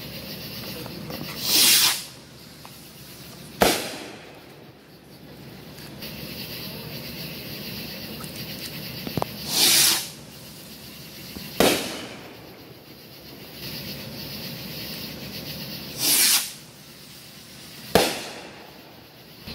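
Three consumer aerial fireworks: each goes up with a short whooshing launch, then bursts with a sharp bang about two seconds later.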